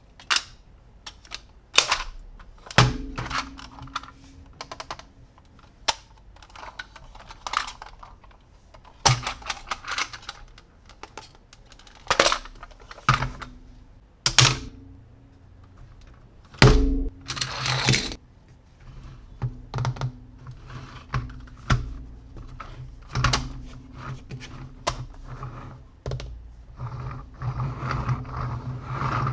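Hard plastic toys being handled: irregular clicks, taps and knocks of plastic pieces against each other and the surface, with a faint low hum coming and going underneath.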